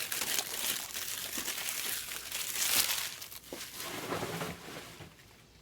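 Trading card pack wrappers crinkling and tearing as packs of 2024 Topps Heritage are handled and opened, a steady rustle that dies away near the end.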